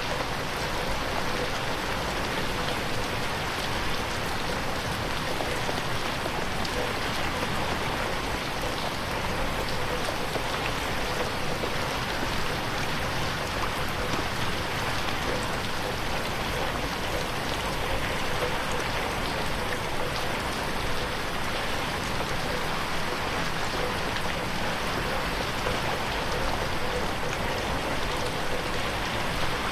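Steady rain pattering on a window pane, an even unbroken hiss of drops.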